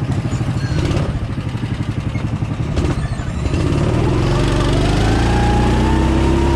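Small engine running with an uneven, throbbing idle. About three and a half seconds in it speeds up with a rising whine, then holds at a steady higher speed.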